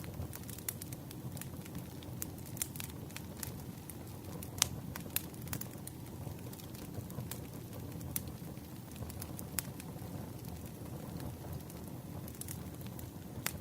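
Wood campfire burning: a steady low rumble of flames with scattered crackles and pops, one sharper pop a little under five seconds in.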